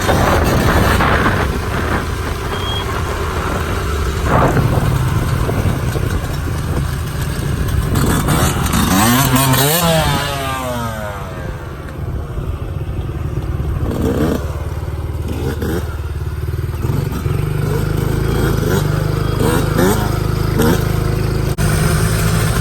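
Dirt bike engines running and revving, their pitch sweeping up and down near the middle, then settling into a steadier low drone.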